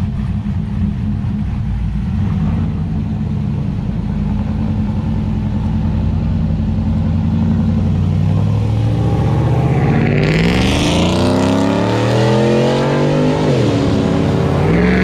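Car engine idling with a deep steady rumble, then accelerating, its note climbing for several seconds from about eight seconds in. The pitch drops sharply near the end and climbs again.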